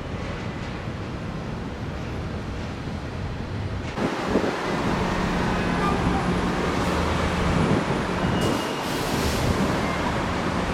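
Road traffic noise with wind on the microphone. It gets louder suddenly about four seconds in, and a steady low engine hum runs through the middle.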